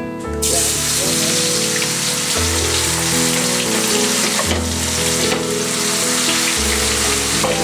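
Sliced red onions sizzling in hot oil in a wok, a steady loud frying hiss that starts suddenly just after the start, over background music of slow held chords.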